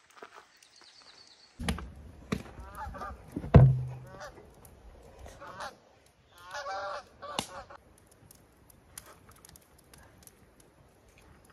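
Geese honking in a series of short calls, several in a quick run near the middle. Sharp knocks are mixed in, and one loud low thump comes about three and a half seconds in.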